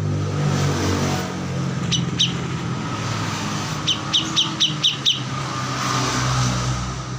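A motor vehicle's engine passing, its hum swelling and fading, with a small songbird giving sharp high chirps: two about two seconds in, then a quick run of six about four seconds in.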